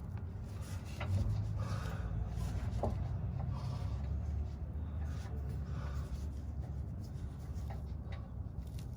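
Faint rubbing and scattered small clicks of hands working at the wiring plug on a diesel fuel filter's water sensor, over a steady low rumble.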